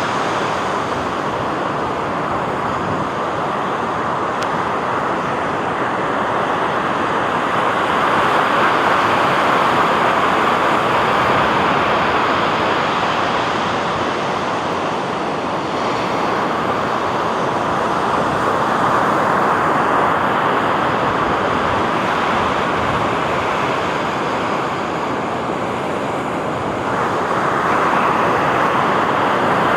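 Ocean surf washing onto a beach: a continuous rush of waves that swells and eases every several seconds.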